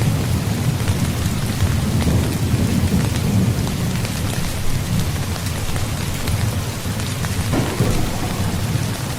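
Steady heavy rain falling, with a continuous low rumble of thunder under it.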